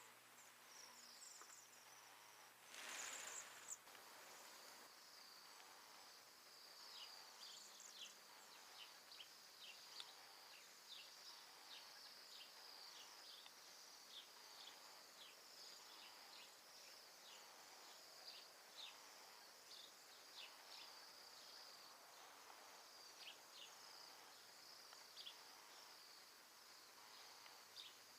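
A flock of Bohemian waxwings calling together: many thin, high trills overlapping in a faint continuous chorus, with short dropping notes scattered through it. A brief noisy rustle about three seconds in is the loudest sound.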